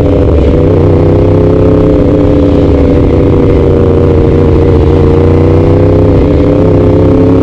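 Yamaha R1's inline-four engine running at a steady, unchanging speed through an Arrow titanium exhaust, loud and even with only slight wavers in pitch.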